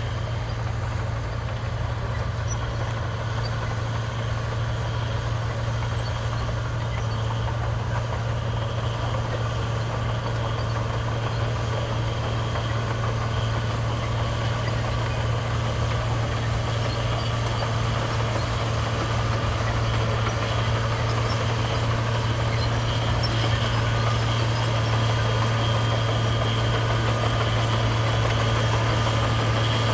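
Heavy diesel engine of a construction machine running steadily with a strong low hum, growing slightly louder near the end.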